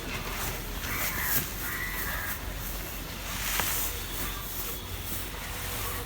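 A bird calling: two short calls, about one and two seconds in, over a steady background hum.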